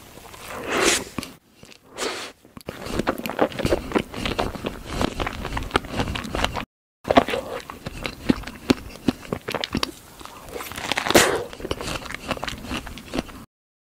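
Close-miked eating sounds: a mouth biting and chewing soft fresh strawberries with whipped cream, with many small wet clicks. Louder, breathy swells come about a second in and again around eleven seconds in, and the sound cuts out completely for a moment a little before seven seconds.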